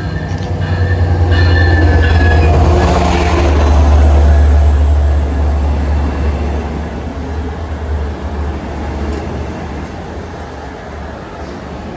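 Diesel train passing close by: a deep rumble that builds to its loudest about three to four seconds in, then slowly fades, with thin high metallic tones in the first couple of seconds.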